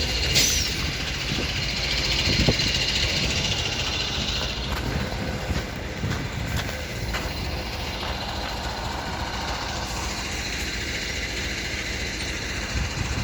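City bus in motion: a steady low engine and road rumble with hiss, and a few light knocks.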